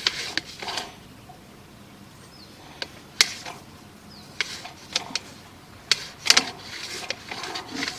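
Irregular sharp clicks and knocks as a sewer inspection camera's push cable is worked back and forth against debris in the drain line, the loudest cluster a little past the middle.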